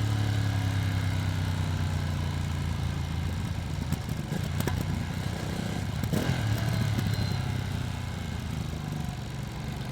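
Ducati Streetfighter V2S's V-twin engine running steadily under way, a low drone whose pitch and loudness ease off slowly. A few short clicks come around the middle.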